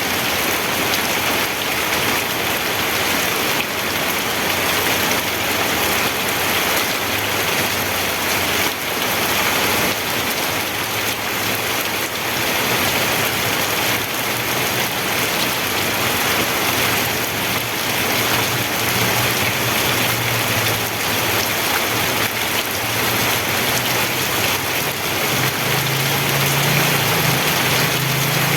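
Steady rainfall hitting a surface, an even, unbroken hiss. A low hum joins in about a third of the way through and grows louder near the end.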